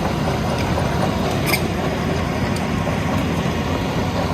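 Heavy diesel machinery running steadily, a dense low rumble, with a brief sharp metallic click about a second and a half in.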